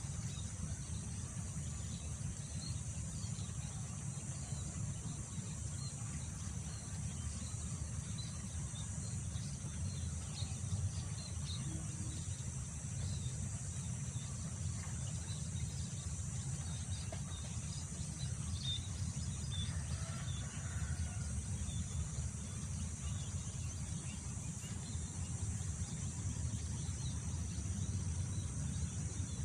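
Rural field ambience: a steady low wind rumble under a continuous high drone of insects such as crickets, with many faint bird chirps scattered through it.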